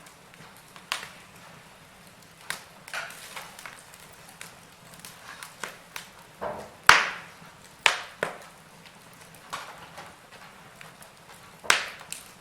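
Wood fire crackling in a fireplace: irregular sharp pops and snaps, the loudest about seven seconds in and two more near the end.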